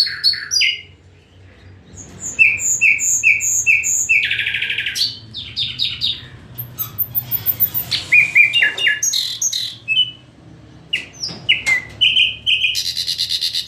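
Nightingale singing a varied song. Phrases of repeated whistled notes and a buzzy rattle alternate with a very high rapid series, broken by short pauses.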